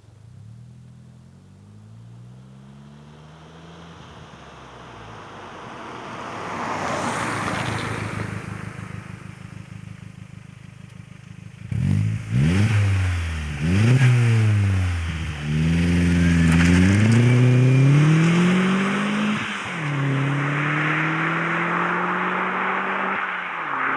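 Opel Astra's 2.0 turbocharged four-cylinder Z20LET engine running through a 2.5-inch RM Motors RM9 sport exhaust. At first it is faint and rising, then a rushing swell. Then it accelerates hard, the note climbing and dropping back at each of several gear changes, and finally climbs slowly.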